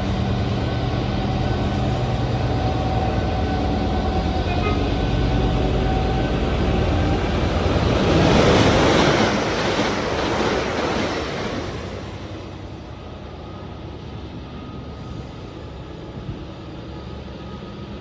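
A train passing on the main line: a steady low hum with a few held tones, rising to a loud rushing peak as it goes by about eight to eleven seconds in, then fading away.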